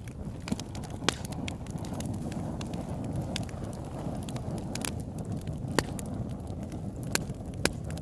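Campfire burning: a steady low rumble of flames with a handful of sharp crackles and pops from the burning wood, the loudest about a second in and near six seconds.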